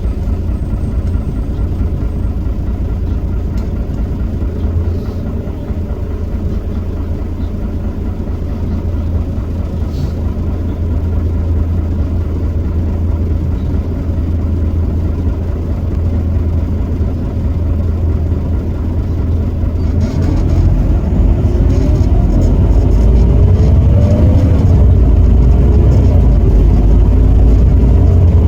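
A Heuliez GX327 bus's Iveco Cursor 8 six-cylinder diesel running with a steady low rumble, then from about two-thirds in pulling louder as it accelerates, its pitch climbing and dropping back several times as the ZF Ecomat automatic gearbox changes up.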